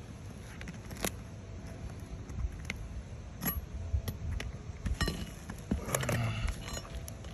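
Scattered sharp clicks, taps and short scrapes of hand work on asphalt roof shingles, busier about five to six and a half seconds in, over a low rumble.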